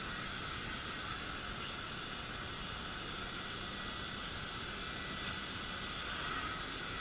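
Vacuum cleaner running steadily, its motor giving a constant whine over a rushing hiss.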